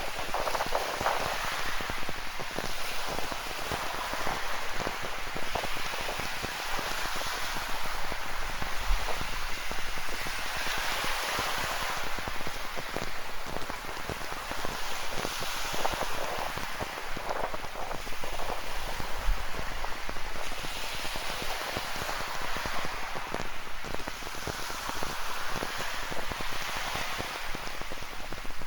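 Rain falling and pattering steadily, mixed with ocean surf rolling onto a rocky shore. The surf swells and eases every few seconds.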